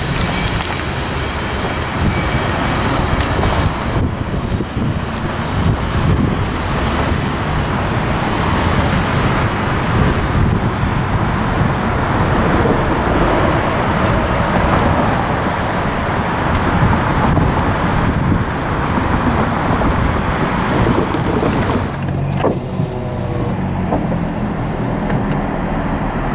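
Freight train of covered hopper cars rolling along the track: a steady rumble and rattle of steel wheels on rail. Near the end it gives way to a steadier low engine hum.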